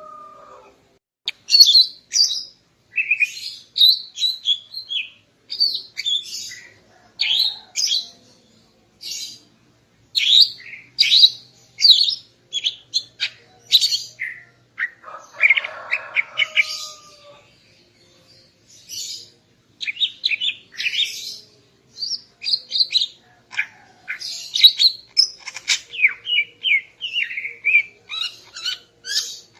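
Female greater green leafbird (cucak ijo) calling: quick runs of short, high chirps, with one harsher, rasping call about halfway through and a brief pause before the chirping resumes.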